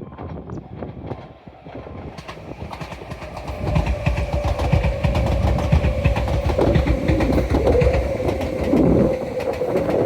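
Electric train on the Tobu Isesaki Line running past at the station. It gets loud about three and a half seconds in, with wheels clattering over rail joints and a steady whine.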